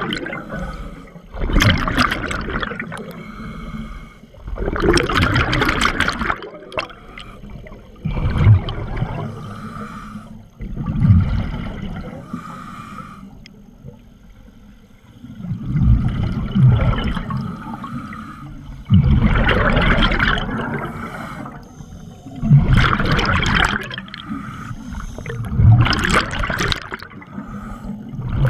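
Scuba diver breathing through a regulator underwater: bursts of exhaled bubbles, repeating about every three seconds, with quieter inhales between them.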